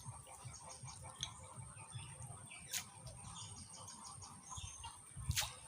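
Rural outdoor ambience: birds chirping in short repeated trills over a steady high insect drone. Two sharp sounds cut through, one about halfway and a louder, falling one near the end.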